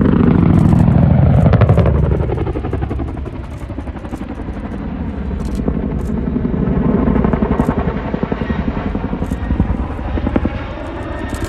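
Chinook tandem-rotor helicopter making a fast pass, its rotors chopping rapidly. It is loudest in the first two seconds, and its pitch falls as it goes by; the rotor noise then swells again more softly.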